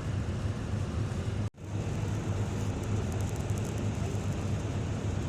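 Steady low rumble of a moving vehicle, engine and road noise, heard throughout. The sound cuts out for an instant about a second and a half in.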